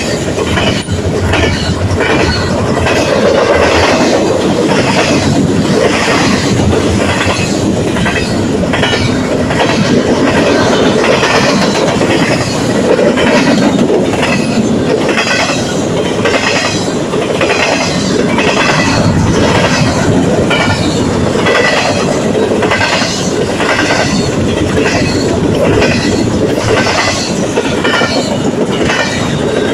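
Double-stack container well cars of a freight train rolling past: a loud, steady rumble with wheels clacking over the rail joints in a regular rhythm.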